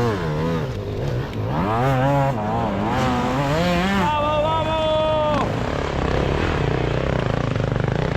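Enduro motorcycle engine revving up and down repeatedly under throttle, then holding a high steady rev for over a second before dropping away about five seconds in. A lower engine rumble continues after that.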